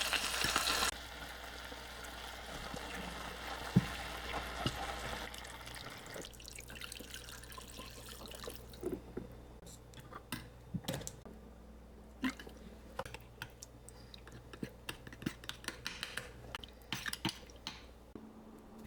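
Food sizzling in a hot pan, the loud sizzle cutting off suddenly about a second in; a softer hiss carries on for a few seconds, then scattered light clicks and taps of kitchen handling.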